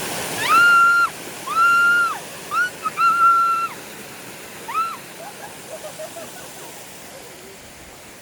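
Mountain stream water rushing over rocks. In the first five seconds, five short high calls, each swooping up to a held pitch and dropping away at the end, are louder than the water.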